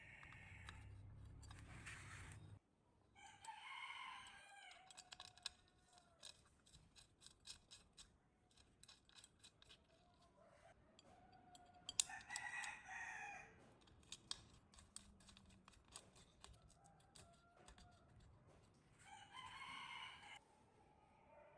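A rooster crowing three times, about eight seconds apart, with light clicks and taps in between. A low hum cuts off suddenly about two and a half seconds in.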